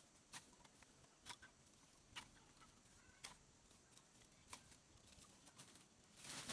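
Near silence broken by faint, sharp clicks about once a second, with a louder rustling noise rising near the end.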